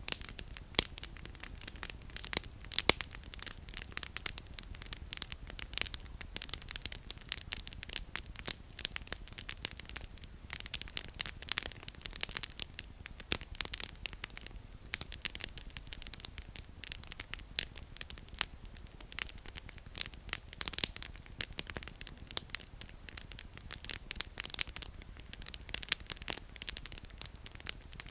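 Wood campfire crackling: firewood snapping and popping in quick, irregular clicks, a few of them louder.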